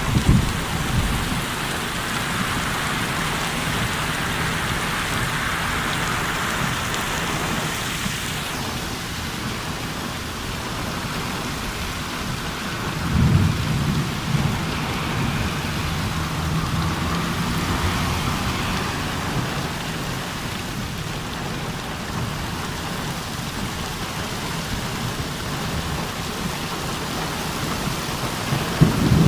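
Steady rain falling, with thunder rumbling. A louder roll of thunder comes about halfway through and rolls on for several seconds, and another begins at the very end.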